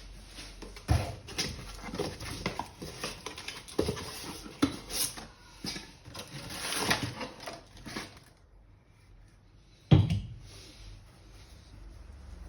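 Irregular plastic clicks, knocks and creaking of a vacuum cleaner's housing being handled and forced apart, with a quieter pause about 8 seconds in and one sharp knock about 10 seconds in.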